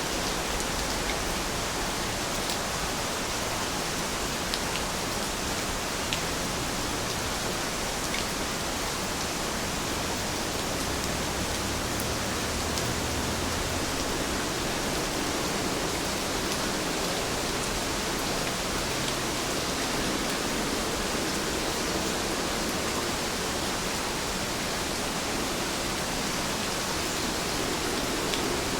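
Steady rain falling, an even hiss with a few faint ticks of single drops scattered through it.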